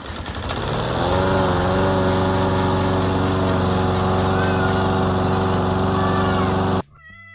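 A motor running steadily with a steady hum, coming up to speed over the first second and cutting off abruptly near the end.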